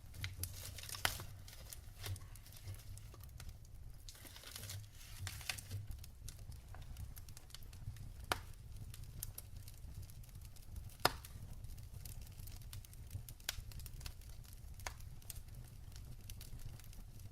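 Wood fire crackling in a fireplace: irregular sharp pops, the loudest about a second in and about eleven seconds in, over a soft hiss of burning and a low steady rumble.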